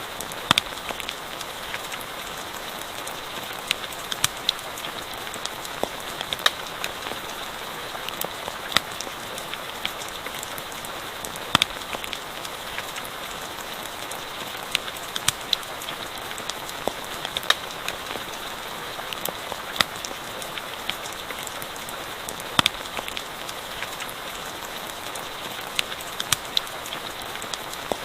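Steady rainfall mixed with a crackling campfire, with sharp pops scattered irregularly through the even hiss of the rain.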